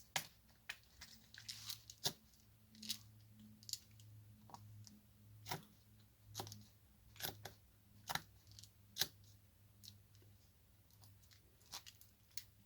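Faint, irregular soft clicks and crackles of a diamond-painting drill pen picking resin drills out of a plastic tray and pressing them onto the sticky canvas, about one or two a second, over a low steady hum.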